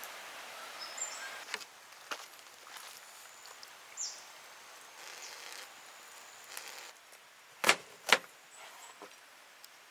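Quiet outdoor ambience with a few light clicks, then two sharp knocks about half a second apart near the end.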